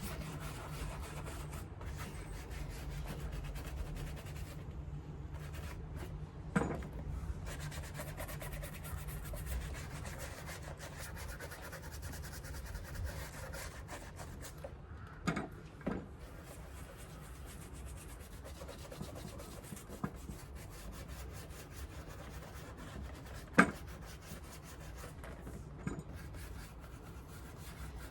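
Steady rubbing on the leather of a Paraboot Michael shoe during shoe polishing, over a low steady hum, with a few sharp knocks, the loudest near the end.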